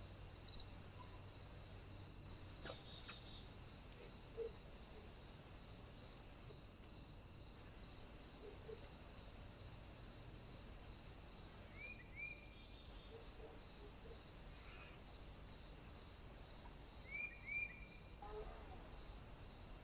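A few short bird calls at a feeder: high single chirps about four and eight seconds in, and paired quick falling chirps about twelve seconds in and again near the end. Under them runs a faint, steady high-pitched hiss with an even pulse.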